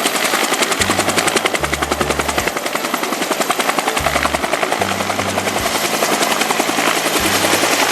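Helicopter in flight: the rapid, even chop of its rotor blades, many beats a second.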